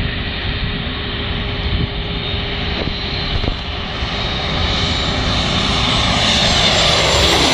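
Engines of a large airliner on a low landing approach, the noise growing steadily louder over the second half as the plane comes closer.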